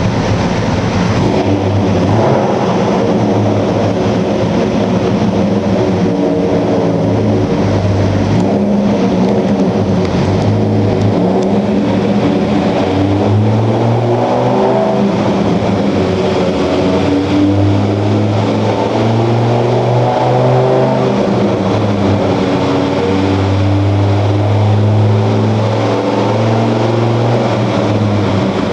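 Dodge Ram SRT-10's 8.3-litre V10 running under full load on a chassis dyno, its note climbing in pitch and dropping back several times as it pulls up through the gears. This is a power run that measured 440 hp and 470 lb-ft.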